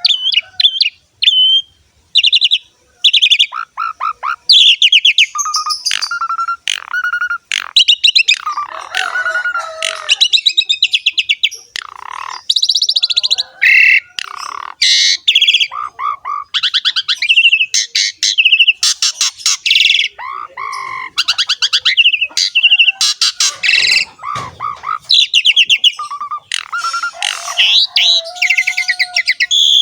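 Javan pied starling (jalak suren) in full, energetic song: a fast, nearly unbroken run of varied whistles, chattering trills, squeaks and harsh notes, mostly high-pitched.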